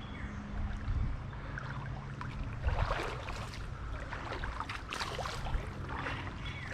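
Creek water splashing and trickling, with a few louder splashes about three and five seconds in, over a steady low rumble.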